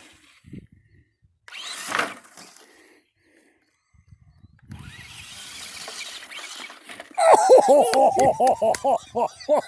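Electric brushed motor of an RC monster truck whining in two bursts of throttle as it drives through grass. In the last couple of seconds it is overtaken by loud, excited, wavering vocal cries.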